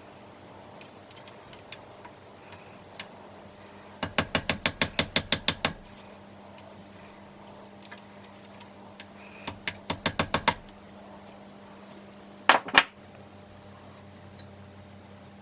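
Ratchet wrench clicking in two quick runs of about eight clicks a second, then two sharp metallic knocks near the end.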